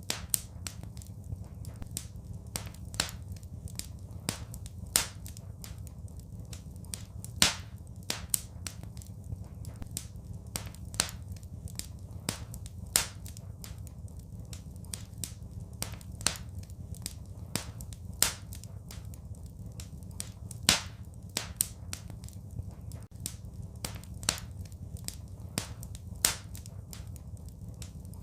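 Wood fire crackling in a fireplace: irregular sharp pops and snaps, several louder cracks among many small ones, over a steady low rumble.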